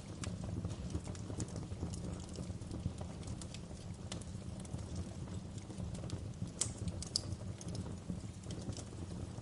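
Wood fire crackling in a fireplace: a steady low rumble of burning with irregular small pops and snaps, two sharper pops a little past the middle.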